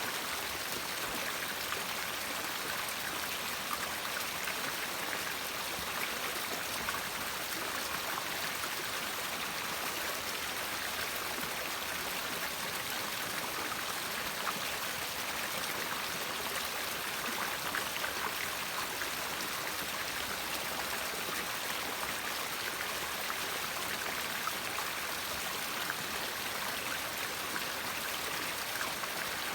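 River water flowing steadily, a continuous rushing with fine splashing detail.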